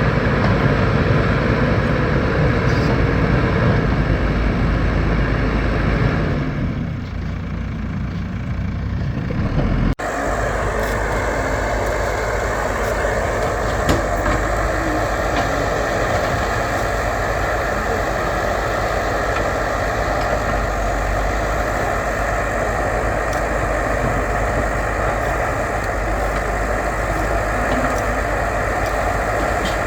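Diesel engine of a backhoe loader working steadily. The sound drops in level about seven seconds in and breaks off abruptly at about ten seconds, then carries on steadily with a faint whine that rises slightly just after the break.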